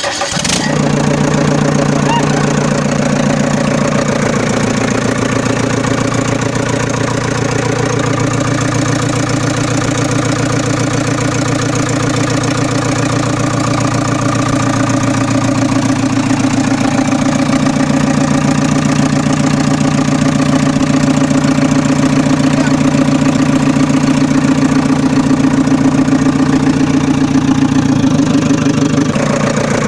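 Engine of a model JCB backhoe loader started and idling steadily with an even, rapid chug, its note shifting slightly a few times.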